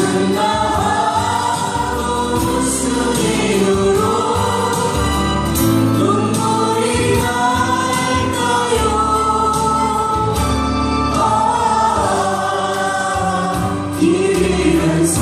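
Live performance of a slow Korean ballad: band accompaniment under a long, smoothly gliding melody line, with voices that sound like a choir.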